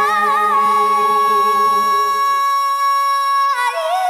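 A female gospel lead vocal holds one long, very high note. Near the end it steps down to a lower, wavering note. A low backing tone underneath fades out about halfway.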